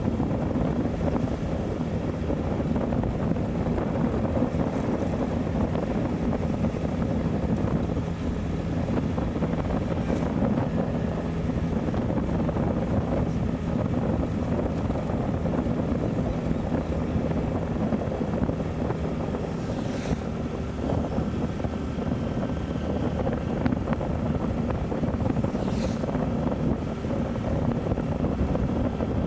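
Motorcycle engine running at a steady cruise with wind rushing over the microphone. Two brief hisses come about twenty and twenty-six seconds in.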